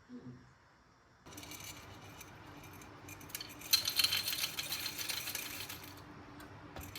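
Coffee grinder grinding whole coffee beans: a steady motor hum starts suddenly about a second in under a dense rattle of beans, which grows louder past the middle.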